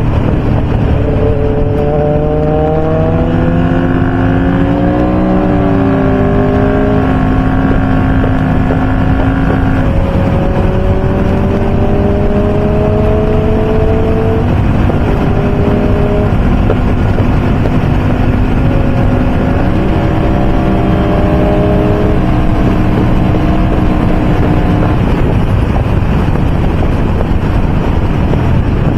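Motorcycles riding at highway speed: a steady rush of wind noise with several engine notes over it, their pitches slowly rising as the bikes accelerate, dropping and climbing again around a third and two thirds of the way through.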